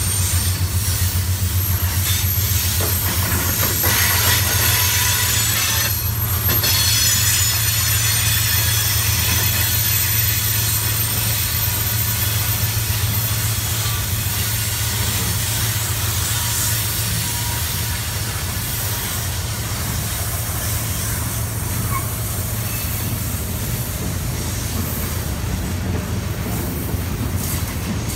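Freight train cars rolling through a rail yard, wheels squealing in thin high tones over a steady low drone.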